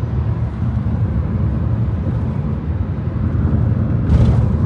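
Steady low rumble of a car driving on city roads, engine and road noise, with a brief hiss about four seconds in.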